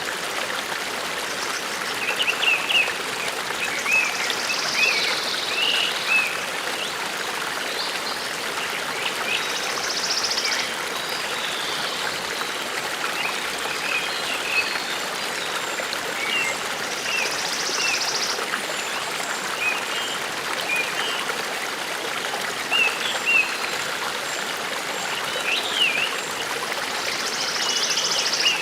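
Forest stream running steadily, with small birds chirping over the water now and then and a few short buzzy calls.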